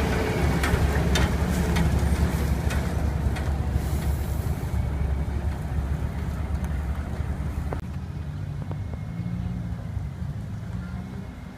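Diesel engine of a UD CWE280 cement mixer truck running with a low rumble that slowly fades away.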